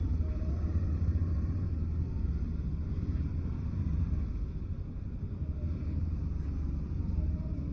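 Motorcycle on the move, a steady low rumble of engine and road noise.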